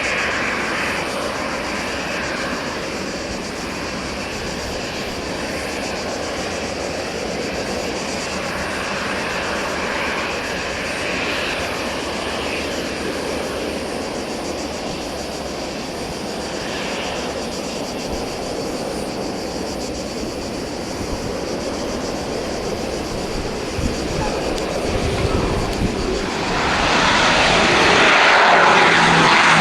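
Let L-410 Turbolet twin-turboprop aircraft coming in to land, its engines and propellers making a steady noise. It grows louder over the last few seconds, and a low propeller hum comes in near the end.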